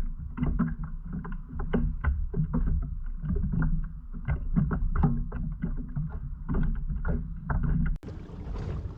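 A fishing kayak under way: a steady low rumble with many small knocks and clicks of the hull and gear, changing abruptly about a second before the end.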